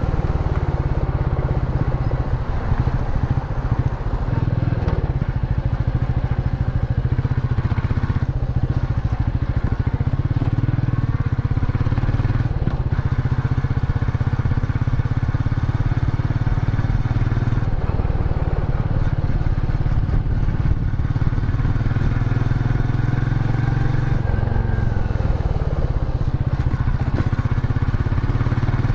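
Royal Enfield Meteor 350's single-cylinder 349 cc engine running steadily while the motorcycle is ridden, its low exhaust note continuous throughout.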